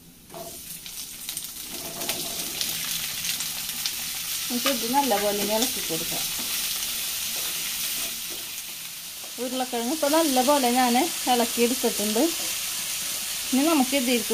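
Raw potato sticks sizzling and crackling in hot oil in a nonstick frying pan as they go in just after the start, then stirred and turned with a wooden spatula. A wavering, voice-like pitched sound comes in three times over the frying.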